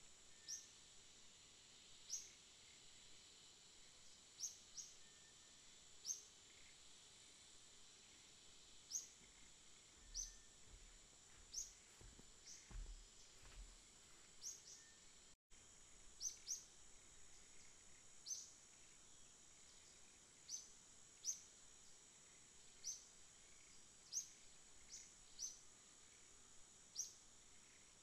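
Faint bird chirping: single short high chirps repeated irregularly, about one every second or two, over a steady faint high-pitched whine.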